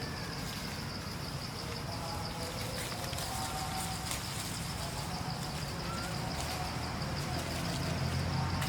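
Steady high-pitched insect buzzing, like crickets or cicadas, over a low rumble.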